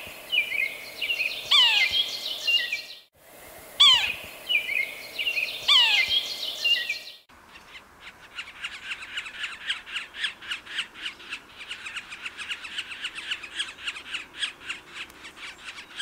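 Yellow-bellied sapsucker calling: first a few steeply falling mewing calls, then from about seven seconds in a long, rapid series of repeated "quee-ah" notes, several a second. The quee-ah series is the call sapsuckers give in the breeding season to announce territorial boundaries.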